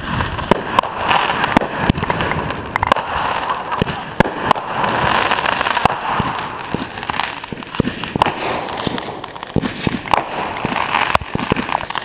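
Fireworks going off: a dense run of irregular sharp bangs and pops over a continuous crackling hiss.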